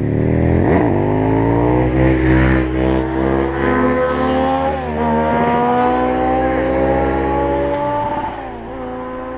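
Sport motorcycle engine accelerating hard through the gears. The pitch climbs steadily in each gear and drops sharply at gear changes about 2, 5 and 8 seconds in. It grows fainter near the end as the bike pulls away.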